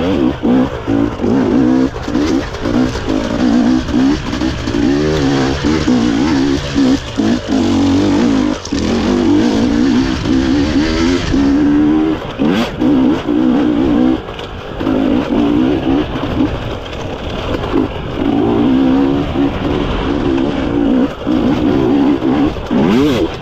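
GASGAS EC250 two-stroke enduro motorcycle engine under hard load, revving up and down with constant on-off throttle. Its pitch climbs and drops every second or so, with a couple of short lulls where the throttle is closed.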